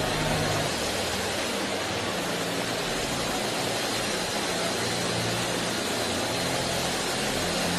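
A large congregation praying aloud all at once, a steady wash of many overlapping voices with no single voice standing out, and low held tones underneath.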